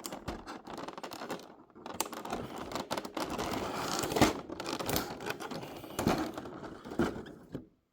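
Plastic packaging being handled and pulled open: crinkling, rustling and tearing, with small clicks and knocks.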